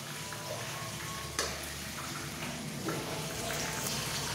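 Food sizzling in a cooking pot, a steady hiss, with two short knocks about a second and a half and three seconds in.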